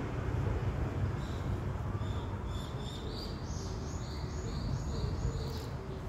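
A small bird singing a series of short, high chirps, about two a second, starting about a second in, over a steady low rumble.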